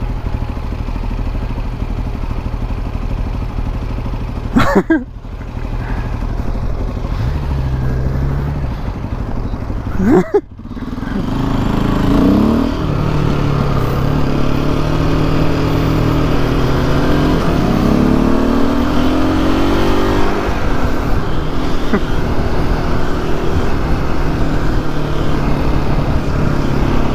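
Motorcycle engine running on the road, its pitch rising and falling repeatedly from about twelve seconds in as it accelerates and changes gear. Two short sharp breaks interrupt it earlier on.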